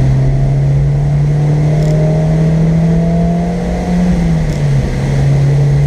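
Car engine heard from inside the cabin, pulling under acceleration with its pitch slowly rising, then an upshift about four seconds in that drops the revs before it pulls on steadily.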